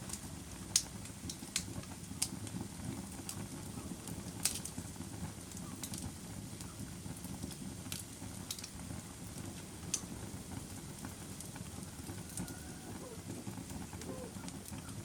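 Wood fire crackling in a fireplace: a steady low rumble with sharp pops scattered through. The loudest pops come about a second in and again about four and a half seconds in.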